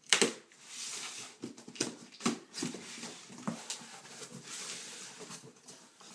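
Rustling and handling of a shoebox and paper, with several sharp clicks and knocks scattered through it.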